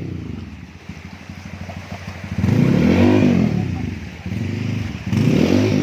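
Trail motorcycle engine revving hard in two bursts, the first about two and a half seconds in and the second near the end, each rising and falling in pitch over a lower run between them.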